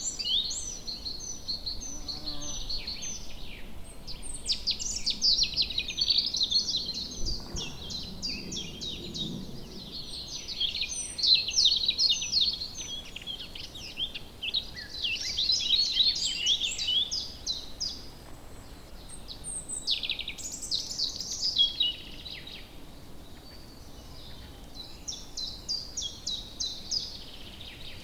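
Woodland birds singing: many overlapping chirps and fast trills, rising and falling in busy spells, over a faint background hum.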